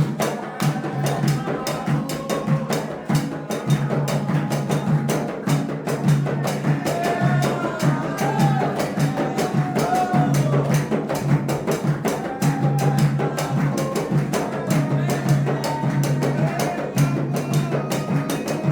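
Candomblé ritual music: fast, dense hand-drumming in a steady rhythm, with voices singing a chant over it.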